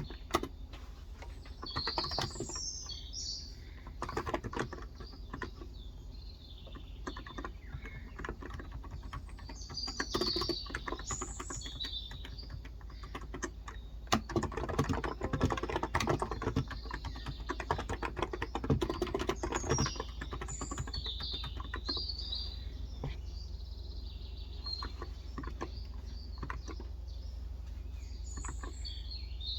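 Typing in bursts on a Cox Endeavor electrostatic capacitive (non-contact) tenkeyless keyboard with light 35 g switches, the busiest typing in the middle. Birds chirp in short high phrases several times throughout.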